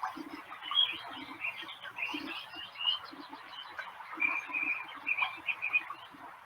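Frogs croaking in short, uneven pulses, several a second, with birds chirping over them: a pond nature ambience.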